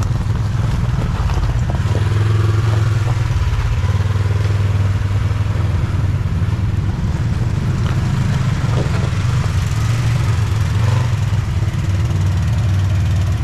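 Side-by-side UTV engine running steadily at moderate revs, a loud, even low-pitched sound with only small changes in speed.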